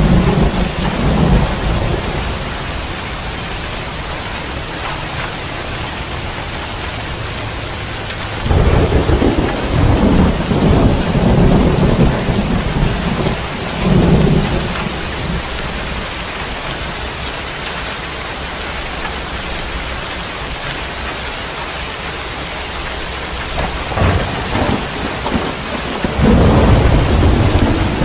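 Steady rain with thunder rolling in: long low rumbles swell up about a third of the way in, briefly again shortly after, and once more near the end.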